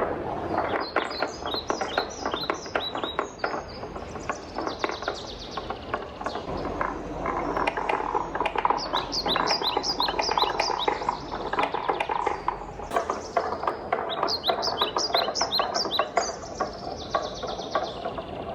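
Wooden balls rolling and clattering down a wooden marble run: a steady rolling rumble with many clicks, and quick runs of bright, pitched ticks in several bursts.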